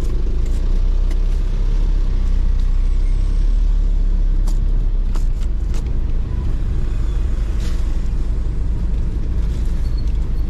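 Steady low rumble of a motor vehicle, with a few sharp clicks about halfway through.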